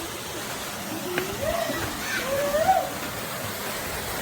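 Steady rushing of water from a waterfall, with a couple of short, indistinct voice sounds in the middle.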